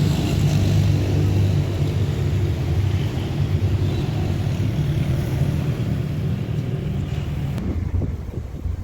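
A motor running steadily with a low drone and some hiss; the hiss drops away near the end.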